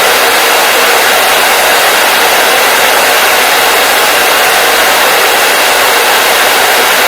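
Hair dryer running steadily: a loud, even blowing hiss that does not change.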